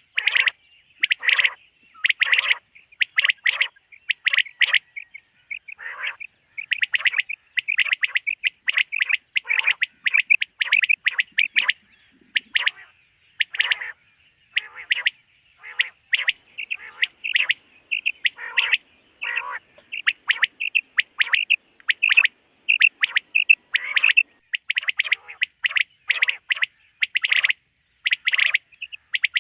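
Common quail calling over and over, a fast run of short, sharp notes repeated in quick clusters.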